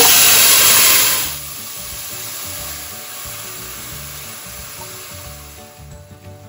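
Vegetables hitting hot oil in a pot: a loud sizzle as julienned jicama strips go in, easing after about a second and a half to a softer steady sizzle that slowly fades.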